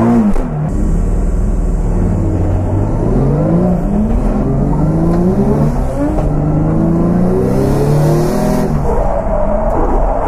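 Drift car's engine revved hard, its pitch climbing again and again in quick rising sweeps as the car is driven sideways through the corners.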